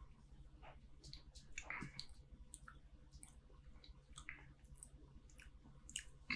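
Faint sipping and swallowing of beer from a glass, with small scattered mouth clicks, a brief louder slurp about a second and a half in, and a sharper click near the end.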